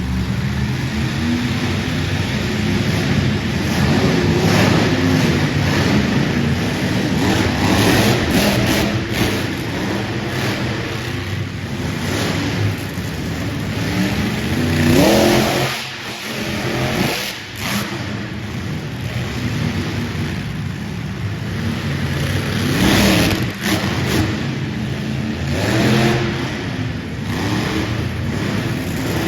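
Monster truck engines running loud and revving hard, with the pitch climbing sharply on the throttle around halfway through and again near the end, and a brief drop-off in between.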